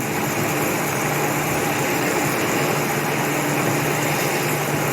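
A motor-vehicle engine running steadily: a low hum under an even rushing noise.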